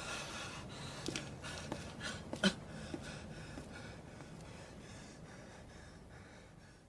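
Faint background with a few light knocks and clicks in its first half, the clearest about two and a half seconds in, fading away to near silence by the end.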